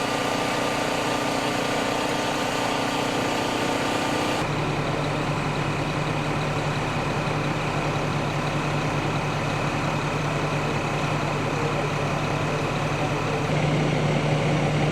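Fire truck engine running steadily with a low hum. The hum shifts abruptly about four and a half seconds in, when a strong low tone sets in, and steps up again near the end.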